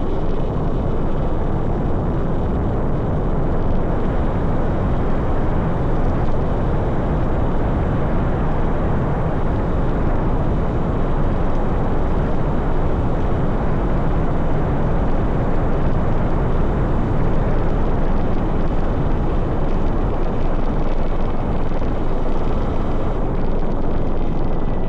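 Steady, heavy wind noise buffeting the microphone of a handlebar-mounted camera on an electric dirt bike ridden fast across open ground.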